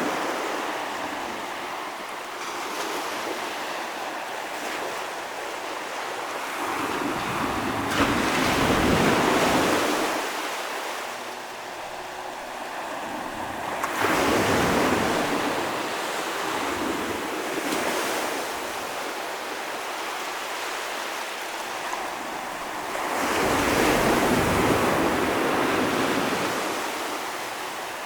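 Ocean waves breaking on the shore, a steady wash of surf that swells three times, each wave breaking with a sudden rise and then draining away. Wind is on the microphone.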